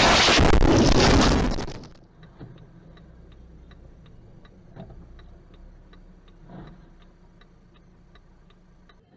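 A loud rushing noise that drops away about two seconds in, then a car's turn-signal indicator clicking steadily, about three clicks a second, over a low engine hum.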